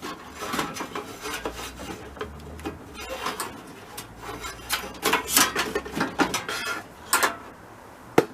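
Irregular clinks, taps and knocks of metal parts being handled in a diesel heater's sheet-metal casing, with a busier run of clatter about five to six seconds in.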